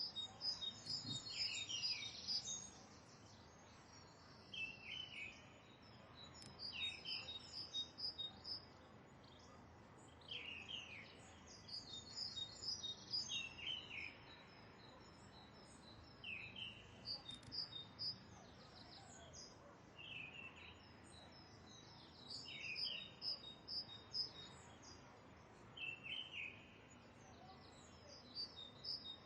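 Birds calling repeatedly: clusters of high chirps and short falling notes every couple of seconds, over a faint steady background hiss.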